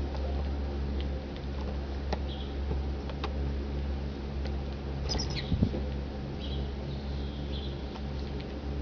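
Small animals give short, faint high chirps, with a quick falling cluster of them about five seconds in, along with scattered scrabbling clicks over a steady low hum.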